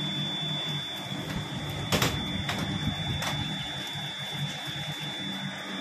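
Train running on the rails, heard from inside a carriage: a steady rumble with a thin high whine, and three sharp wheel clacks over rail joints a little over half a second apart about two seconds in.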